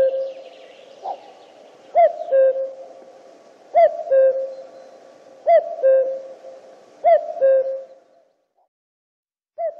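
Common cuckoo, a male, giving its two-note "cu-coo" call, the first note higher and the second lower. The call repeats about every second and three-quarters. It breaks off for over a second near the end, then starts again.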